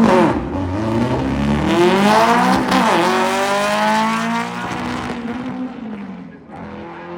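Volkswagen drag car's engine at full throttle down the drag strip, its pitch climbing through the gears with a sharp drop at a gear change about three seconds in. It fades as the car pulls away.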